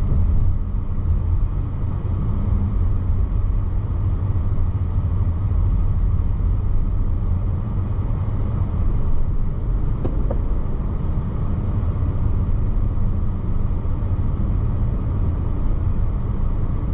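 Steady low road rumble inside a moving car: engine and tyre noise heard from the cabin while driving.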